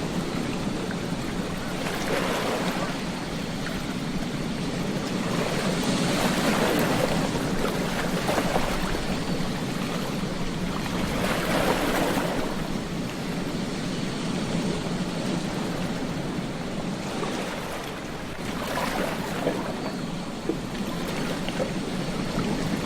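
Ocean waves breaking and washing up a beach, a steady surf noise that swells with each wave several times.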